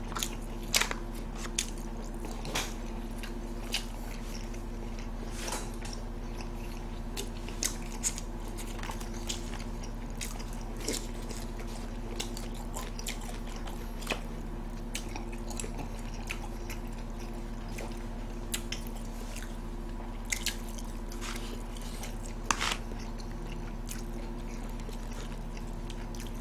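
Close-miked chewing and biting of food, with scattered sharp clicks and a few crunches, over a steady background hum.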